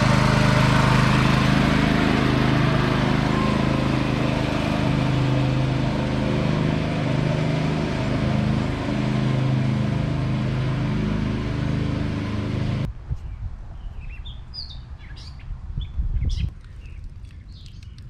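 Sears 10XL garden tractor's engine running steadily, which stops abruptly about thirteen seconds in. After that, birds chirp and there is a brief low rumble a few seconds later.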